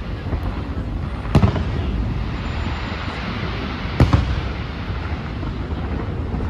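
Fireworks going off: two sharp bangs, about a second and a half in and again about four seconds in, over a continuous low rumble.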